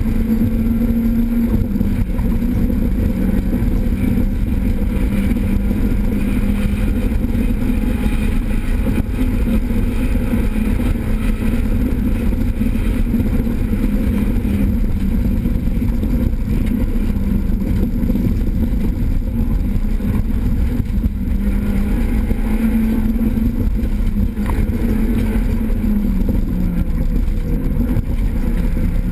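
Renault Clio 16S rally car's 16-valve four-cylinder engine running hard at high revs, heard from inside the cabin over constant road noise. Its note holds steady, with small dips and rises as the driver lifts and shifts, one clearer dip near the end.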